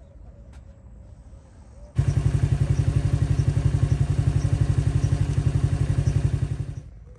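A loud motor or engine running with a fast, even pulsing beat. It starts suddenly about two seconds in and stops near the end.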